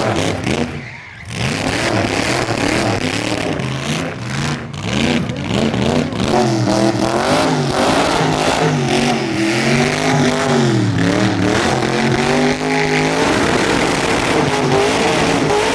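Vehicle engine revving hard, its pitch swinging up and down again and again over a haze of noise, from about six seconds in.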